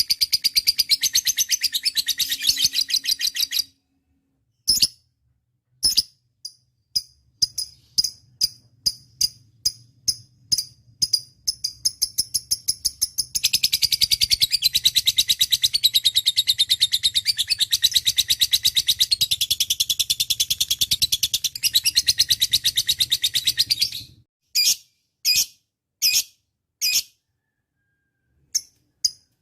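Lovebird calling: long runs of fast, high-pitched chattering trill, one at the start and a longer one of about ten seconds in the middle. Between them and near the end come single sharp chirps, one or two a second.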